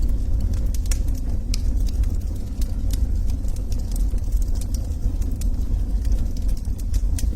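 Burning logs in a fireplace crackling, with frequent small sharp pops scattered irregularly over a steady low rumble of the flames.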